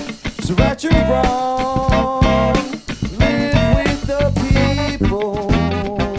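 A funk band of electric guitar, bass, drums, saxophone and trumpet playing live, an instrumental passage with a steady beat and several long held notes about a second in.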